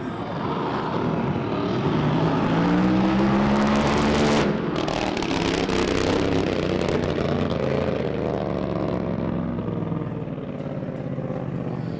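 Drag boat racing engine running hard, its pitch rising over the first few seconds. About four and a half seconds in the sound changes abruptly to a harsher, crackling engine noise that carries on.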